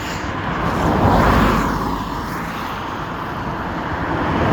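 Road vehicles passing close by, a rushing swell of traffic noise: one goes past about a second in and another comes up near the end.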